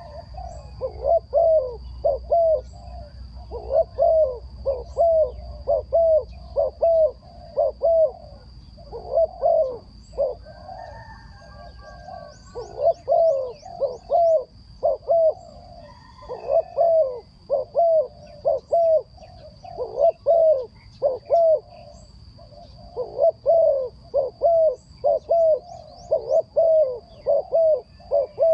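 A bird calling: runs of short, low, hooting notes, several a second, repeated again and again with brief gaps between runs, over a faint steady high whine.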